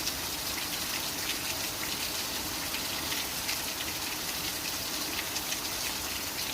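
Heavy storm downpour striking the ground: a steady rush of falling and running water, with many small sharp taps of impacts.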